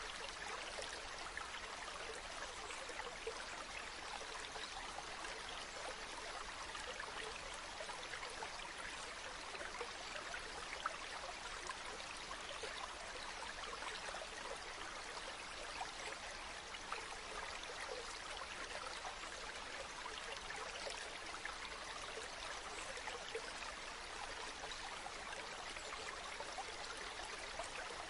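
Running water: a steady, even rush of flowing water, dense with small splashing and trickling detail.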